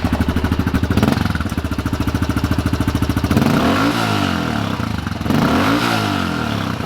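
Pit bike engine running at a steady idle, then revved up and back down twice as the throttle is blipped, working the newly fitted throttle tube and cables.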